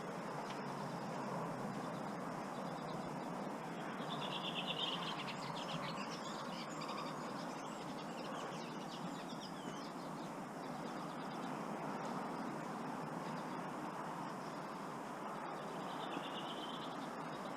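A steady wash of water noise, with a small bird singing in brief trilling bursts about four seconds in and again near the end.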